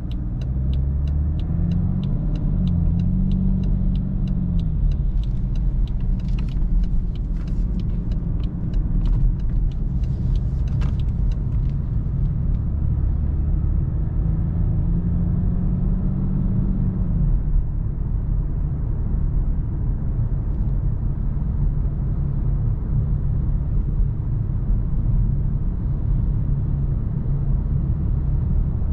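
BMW 330d's straight-six diesel and the tyre and road rumble as heard in the cabin. The engine note rises and falls over the first few seconds and again midway, then settles into a steady low cruising rumble. A run of light, rapid ticks sounds through the first twelve seconds.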